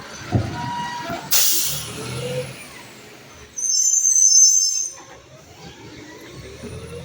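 Garbage truck at work: a low clunk, then a sharp burst of air-brake hiss about a second in, followed by a loud high-pitched squeal lasting about a second, over a low running rumble.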